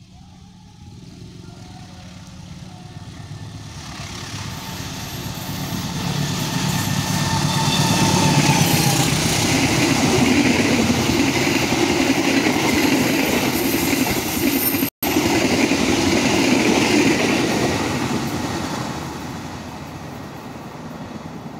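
Fajar Utama Yogya passenger train, hauled by a diesel-electric locomotive, passing close by: the sound builds as it approaches, holds loud as the carriages' wheels run over the rails, then fades as the train moves away. There is a momentary cut in the audio about two thirds of the way through.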